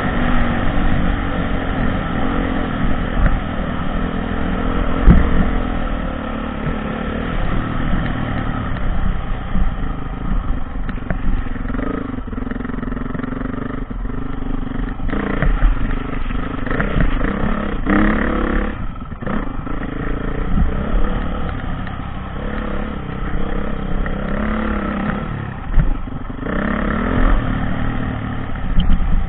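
Dirt bike engine running under load, revving up and down in pitch as the bike is ridden, with a sharp knock about five seconds in.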